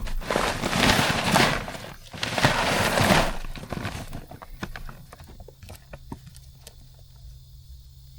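Shelled deer corn pouring from a sack into a feeder in two rushes, then scattered kernels ticking and settling for a second or two.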